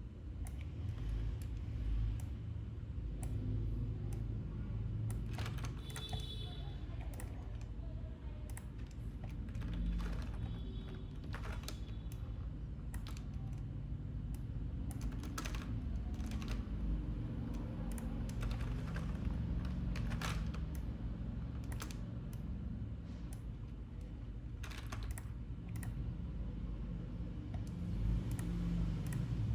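Computer keyboard keys clicking in irregular, scattered keystrokes over a steady low hum.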